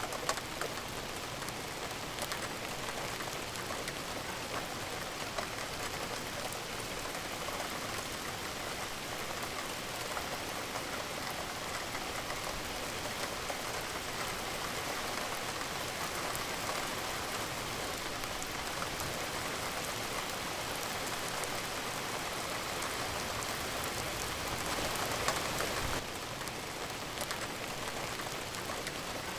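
Steady rain falling on a surface: an even hiss with scattered sharper drop ticks. It gets slightly quieter near the end.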